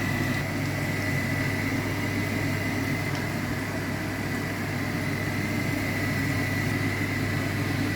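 A steady machine hum with a thin, constant high whine, unchanging throughout.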